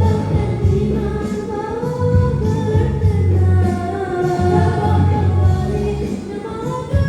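Young girls singing a Malay pop duet over backing music with a pulsing bass.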